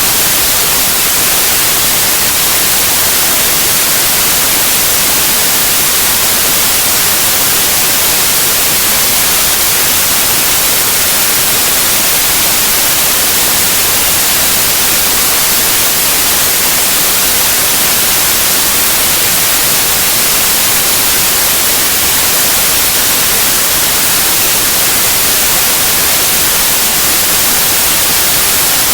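Steady, loud white noise: an even hiss across all pitches, unchanging throughout.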